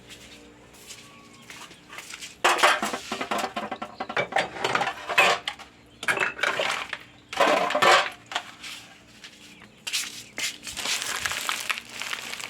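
Dishes and pots clattering as they are handled and moved about, in several bursts with short pauses between.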